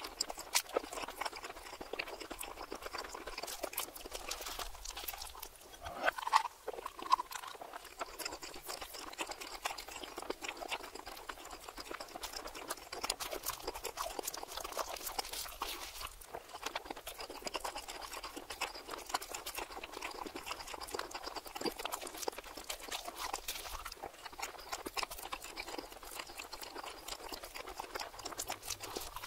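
Close-miked chewing of a cheesy Philly cheesesteak on a toasted roll, played backwards: a dense run of wet mouth clicks and bread crackles, with two louder mouth sounds about six and seven seconds in.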